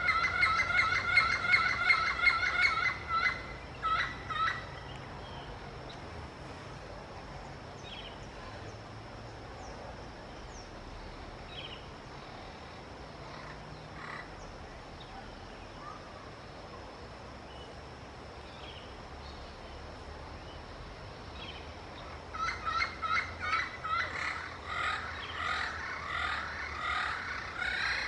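Yellow-fronted parrot giving fast runs of repeated, pitched call notes, a burst in the first few seconds and another starting about 22 seconds in, with scattered faint chirps between. A faint steady high whine sits behind it throughout.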